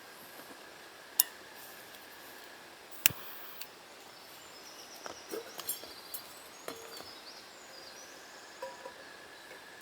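Scattered sharp clicks and knocks over a faint steady outdoor background, the two loudest about a second in and about three seconds in, with a cluster of smaller clicks in the middle and faint high chirps.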